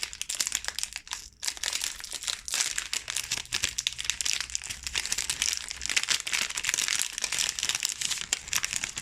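Snack wrapper crinkling continuously as it is handled, with many small crackles and clicks.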